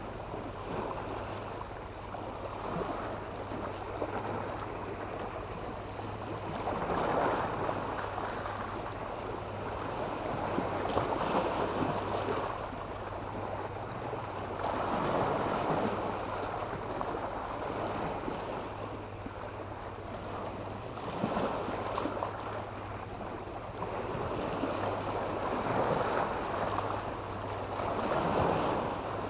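Sea waves breaking and washing over a shore of black stones and sand, the rush of water swelling and falling back every four to five seconds.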